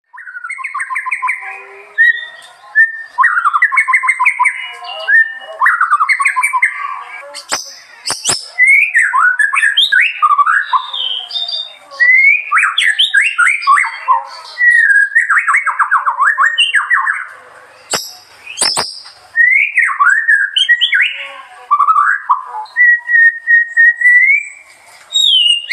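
A murai, a Copsychus songbird, singing a long, loud, varied song of rich whistled phrases, fast trills and sweeping notes, with short gaps between phrases. A few sharp clicks come about a third of the way in and again about two-thirds in.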